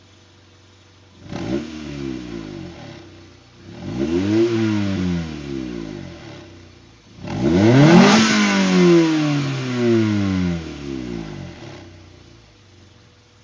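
2000 Honda Civic Si's 1.6-litre VTEC four-cylinder through an Apexi WS2 exhaust, warmed up and revved three times from idle, each rev higher than the last: to about 2,000, then 3,000, then a little past 6,000 rpm, the revs falling back to idle after each. The third rev is the loudest and longest.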